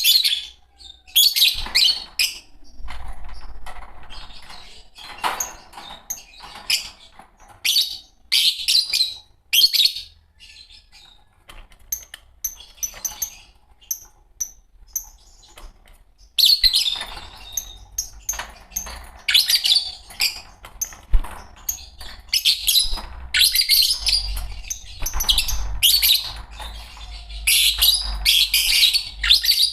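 A pair of Fischer's lovebirds chattering in shrill, rapid chirps. The chatter thins to scattered single chirps for a few seconds midway, then comes back dense and busy.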